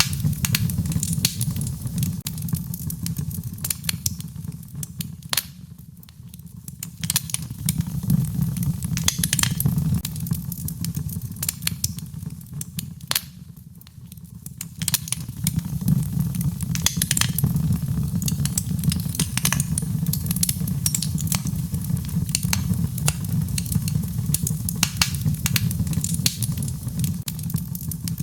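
Wood fire in a fireplace crackling, with many sharp pops over a low steady rumble. The crackling briefly thins out twice, about six and about fourteen seconds in.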